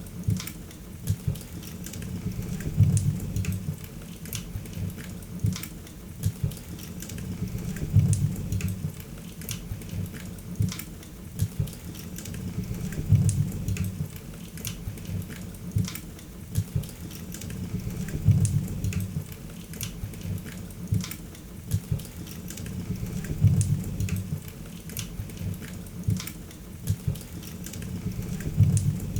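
Wood fire crackling, with frequent sharp pops and snaps over a low rumble of flames. Louder bursts of pops and rumble come back about every five seconds, evenly, like a looped recording.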